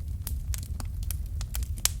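Wood fire in a fireplace crackling, sharp pops and snaps over a low steady rumble of the flames, with one louder pop near the end.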